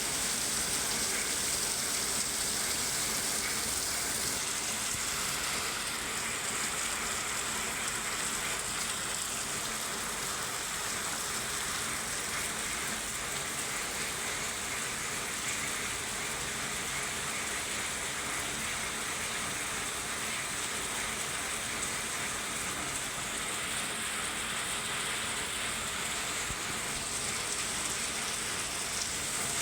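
Steady rain falling in a forest: an even, unbroken hiss of drops. A high part of the hiss eases a few seconds in and comes back near the end.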